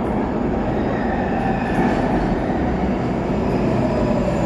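Subway train running into the station platform: a loud, steady rumble of wheels and motors, with a faint whine that slowly falls in pitch as it slows.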